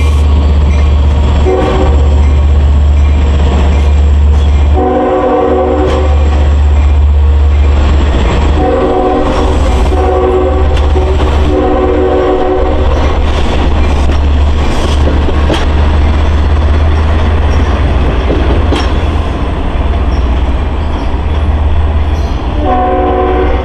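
A Long Island Rail Road train's multi-note air horn sounds several blasts, some short and some about a second long, over the steady heavy rumble of the train running past.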